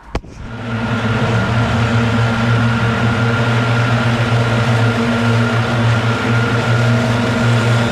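Gas-powered leaf blower running steadily at high throttle: a loud engine hum under a rush of air and a thin fan whine, coming up to full volume within the first second.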